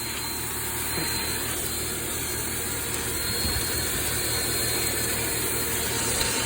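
Power Force compact vacuum cleaner running steadily, its motor drawing in dirt through the hose.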